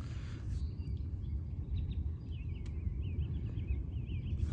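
A songbird singing a fast, wavering warble for a couple of seconds in the middle, over a steady low rumble.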